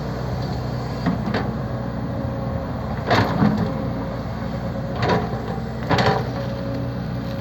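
A steady low motor hum with a handful of short clattering knocks: a pair about a second in, a louder cluster around three seconds, and one each around five and six seconds.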